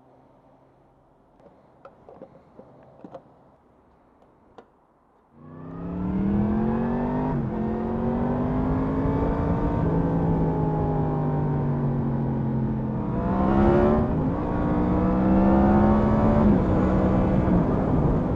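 Yamaha MT-10's crossplane inline-four engine pulling away and accelerating, its revs climbing, dropping briefly at a gear change and climbing again, with a second shift later on. Before the engine comes in there are a few seconds of quiet with faint scattered clicks.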